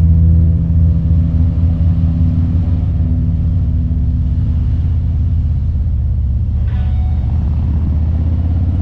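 Motorcycle engine running steadily while riding, with a loud low rumble.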